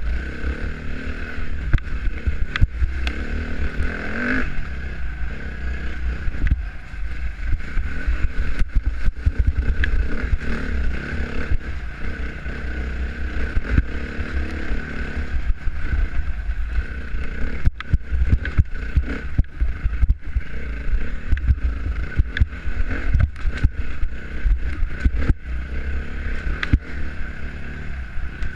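Dirt bike engine running steadily while riding, under heavy wind buffeting on the microphone, with frequent knocks and clatter from the rough ground.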